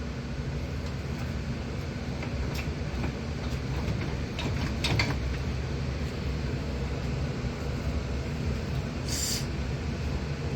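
Steady low mechanical hum with a few light creaks and clicks in the middle and a brief hiss near the end, as a V8 engine is let down on a jack onto its motor mounts.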